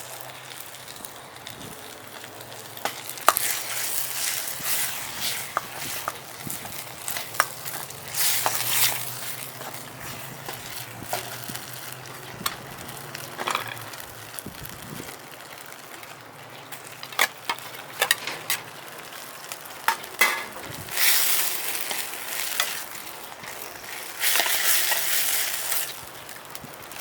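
Food stir-frying in a Chinese wok: a steady sizzle, with louder bursts of sizzling and sharp knocks and scrapes as a utensil tosses the food against the pan.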